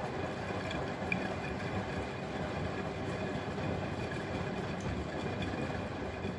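Bosch Maxx WFL 248Y front-loading washing machine running, its drum motor turning the drum with a steady rumble and the wash churning, which stops near the end.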